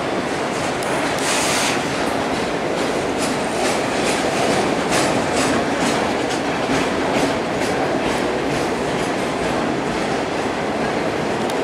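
Freight train of enclosed autorack cars rolling past: a steady noise of wheels on rails, with repeated sharp clicks and clacks from the wheels at irregular intervals.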